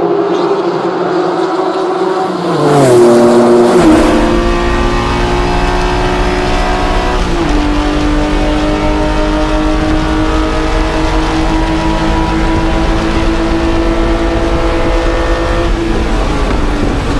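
Racing Corvair's air-cooled flat-six engine running hard under load. Its pitch drops sharply about three seconds in, as when braking and shifting, steps down again a few seconds later, then holds steady.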